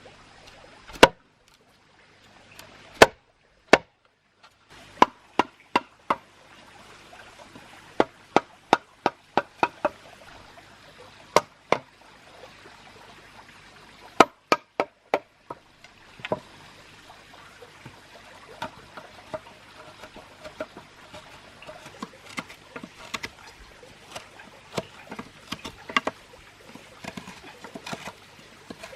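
Sharp knocks or taps, some single and some in quick runs of four to six, the loudest about one and three seconds in; from about halfway on they give way to fainter, busier irregular clicking.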